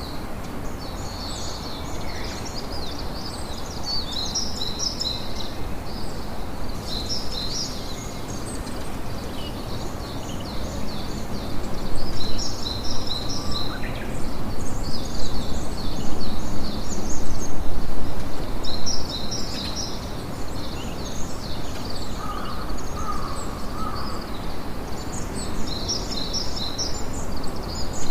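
Campfire crackling and hissing, a little louder for a few seconds in the middle, with birds chirping in repeated clusters of short high calls.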